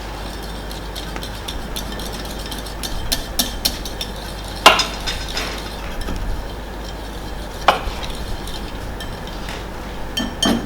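Hand whisk beating cream in a bowl: a fast run of light clinks and scrapes. A couple of louder knocks come about five and eight seconds in.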